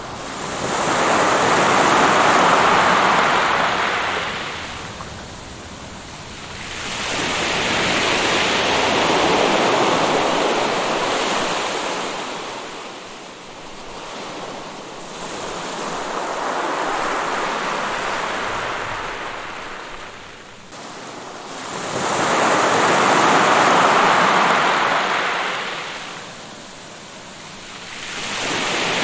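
Ocean surf: waves washing in and falling back, the rush swelling and fading about every six to seven seconds.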